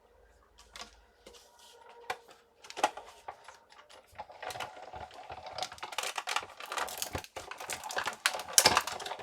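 Cardstock, plastic cutting plates and a steel-rule die being handled and run through a hand-cranked Sizzix Big Shot die-cutting machine: a string of quick clicks and crackles, sparse at first and busy from about four seconds in.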